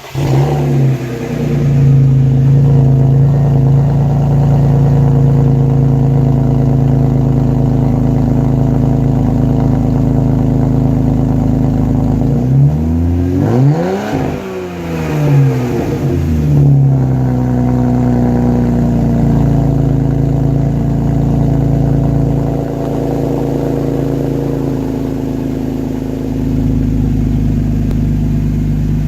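A BMW E46 330Ci ZHP's inline-six, with the muffler deleted, catches on a cold start and settles into a fast, steady idle. About halfway through it is revved a few times, the pitch rising and falling, before it drops back to idle.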